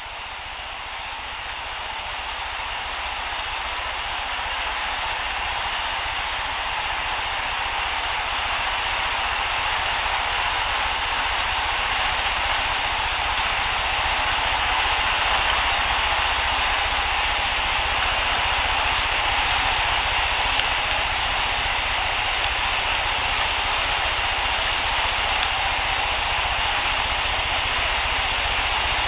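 Steady hiss of a heavily amplified outdoor field recording, fading up over the first dozen seconds and then holding level, with no distinct calls or knocks standing out.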